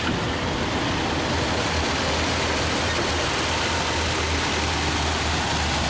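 1934 Packard Eight's straight-eight side-valve engine idling steadily and smoothly, heard up close in the engine bay as a low, even hum. The engine was rebuilt, and the owner thinks it is idling slightly too high.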